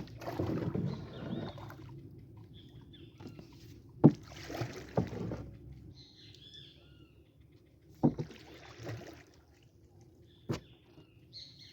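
Water sloshing against a small boat in surges about every four seconds, with sharp knocks on the boat and short high chirps between them.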